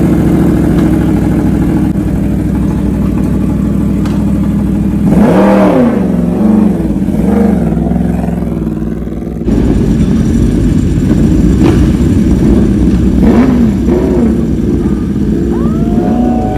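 Yamaha R1M's crossplane inline-four idling loudly through its exhaust, blipped several times so that the revs rise and fall briefly before settling back to idle.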